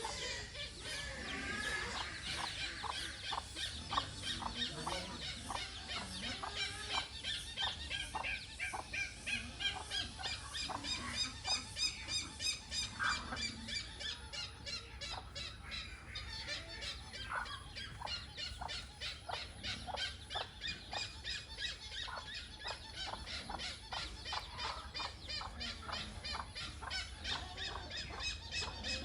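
Hornbills calling with rapid, repeated squealing and honking notes that run on without a break, pulsing louder through the middle, over a steady low hum.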